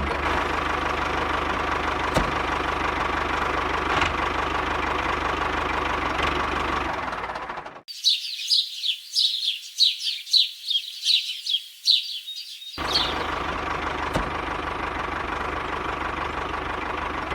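A small engine running steadily with a fast, even ticking. About eight seconds in it drops out for roughly five seconds, and a run of rapid high chirps takes its place before the running sound returns.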